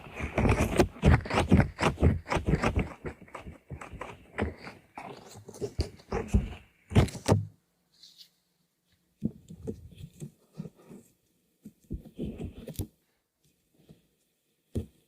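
Close-miked ASMR trigger sounds: quick tapping and handling of objects for about seven seconds, then a pause and a few scattered taps.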